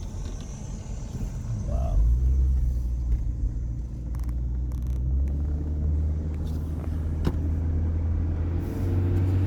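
Low, steady engine and road rumble of a car heard from inside the cabin, getting louder about two seconds in as the car gets going; a single click near the seven-second mark.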